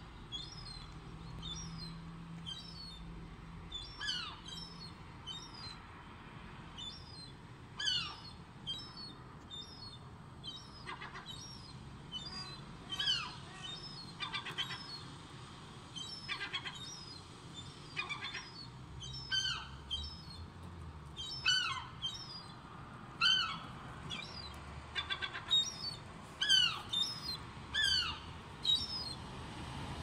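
Birds calling: short, downward-sliding calls repeated every second or two, often in quick runs of two or three, growing more frequent in the second half.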